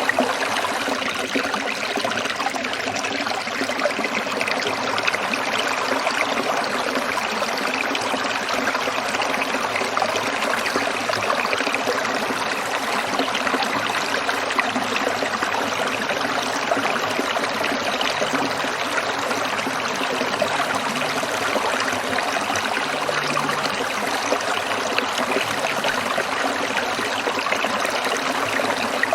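Small stream trickling and splashing steadily over rocks.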